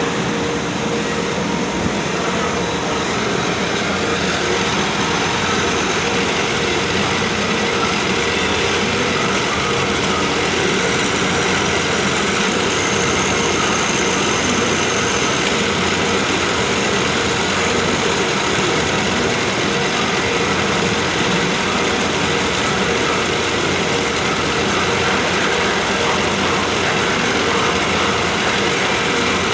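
Automatic drilling machine running: a steady, unbroken mechanical hum and whir with a few faint steady tones.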